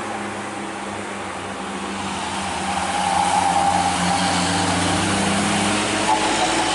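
Old truck's engine running hard as it climbs a steep grade. It grows louder about three seconds in.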